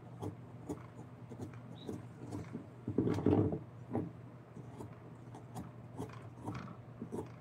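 Hand tools working on wood: irregular small taps and scrapes, with a louder stretch of rubbing or scraping about three seconds in, over a steady low hum.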